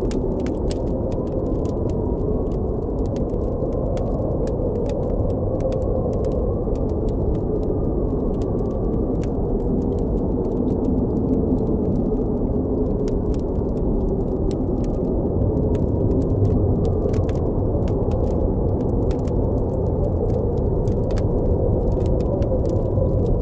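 Blizzard wind blowing with a low, wavering howl over a steady rumble, and a campfire crackling in many small, sharp pops.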